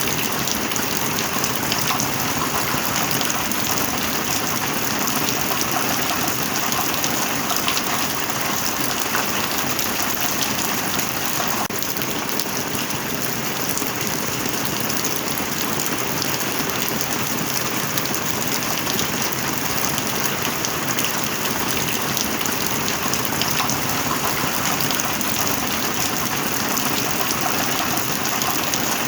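Heavy rain falling steadily: a dense, even hiss of many drops that holds without a break.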